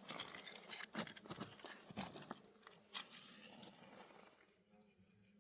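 Irregular crackling and rustling clicks, dense at first and dying away after about three seconds.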